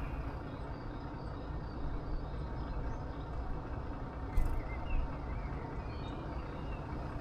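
Steady low outdoor rumble with faint, short bird chirps in the middle, and a single brief knock about four and a half seconds in.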